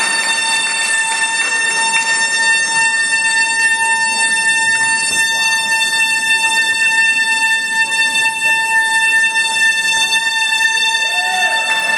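Soprano saxophone holding one long, high, unbroken note that does not waver.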